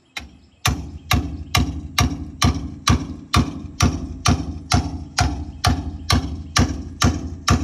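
Hammer striking a chisel in a steady run of sharp metal blows, about two a second, working an old wire-reinforced hose loose by breaking its wires.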